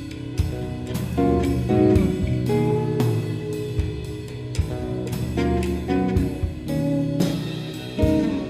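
Live indie rock band playing instrumentally: electric and baritone guitars ringing out sustained chords over a drum kit with steady cymbal and drum hits.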